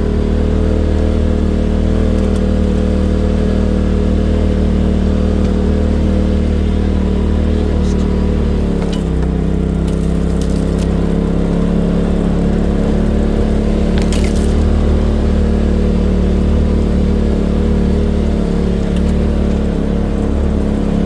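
Polaris RZR side-by-side engine held at high revs under load while climbing a snowy hill, its pitch shifting about nine seconds in. A few faint sharp clicks and scrapes sound over it.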